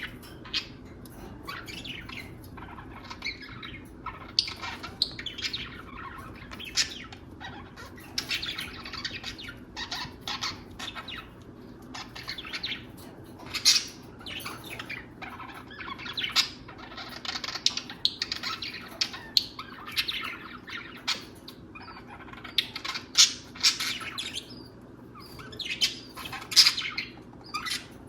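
Budgerigars chattering in a dense run of short, high chirps and squawks, the warbling chatter of a courting pair. A faint steady low hum runs underneath.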